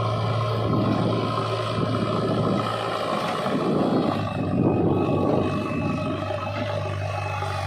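Heavy diesel machinery engine running, a steady low hum under a rough noise that swells and eases.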